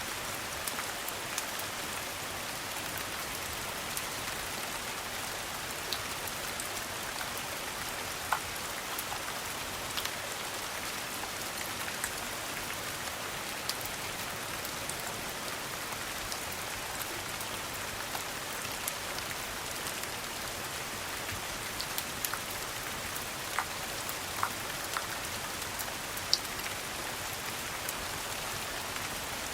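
Steady rain falling, an even hiss of drops, with scattered sharp pops and ticks over it, a few louder ones in the second half.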